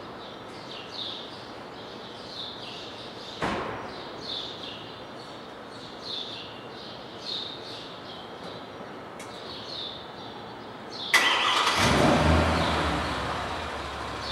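A bird chirps over and over, and there is a single click about three and a half seconds in. Near the end the Genesis R-Spec's engine is started: a sharp burst, then the engine catches and runs loudly through its custom exhaust with Dynomax VT mufflers, easing into a steady idle.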